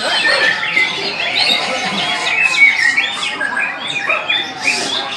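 Many caged songbirds singing and calling at once in a songbird contest: a dense chorus of overlapping chirps and whistles.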